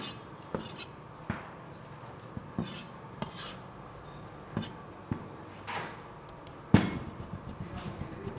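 Irregular knocks and clatter of kitchen work, like utensils striking wood and metal, with one loud knock about two-thirds of the way through.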